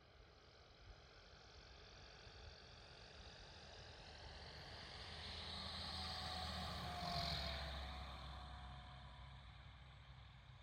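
Remos GX light sport aircraft with its Rotax 912 flat-four engine passing by at low power during a landing. The engine grows louder as the aircraft approaches, passes about two-thirds of the way in with a slight drop in pitch, then fades.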